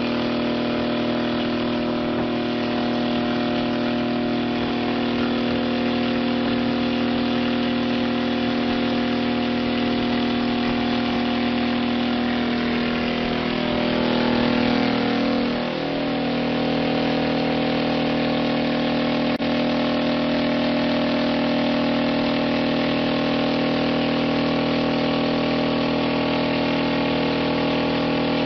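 Engine of a homemade helicopter running steadily; about halfway through its pitch slides down and settles lower as the engine slows.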